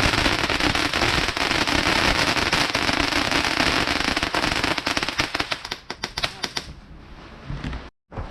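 Fireworks going off: a dense, rapid crackling of many small bangs over a hiss, thinning out to scattered crackles after about six seconds. The sound cuts out briefly near the end.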